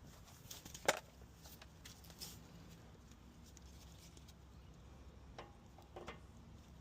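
A sharp click about a second in, then a few fainter clicks and taps over a low, steady hum.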